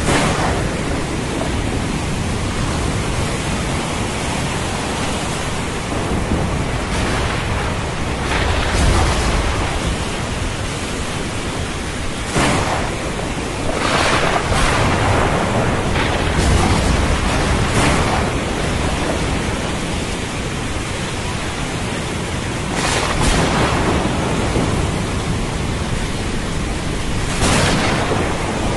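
Thunderstorm over the sea: a steady hiss of rain and surf, with waves surging every few seconds and low rumbles of thunder, the strongest about a third and then two thirds of the way through.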